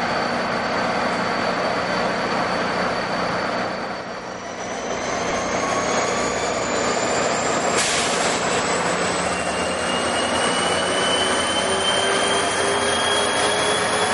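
NJ Transit commuter train running by with steady wheel-and-rail noise and a high steady squeal. About four seconds in, whines set in that rise slowly in pitch, as the train picks up speed. There is one short clank about halfway through.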